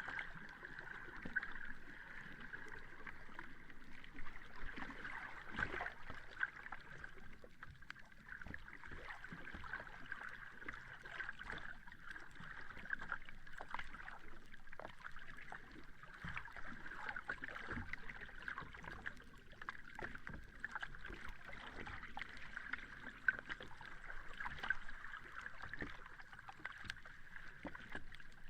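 Calm sea water lapping and washing at the shore, with many small irregular splashes and crackles over a steady high hiss.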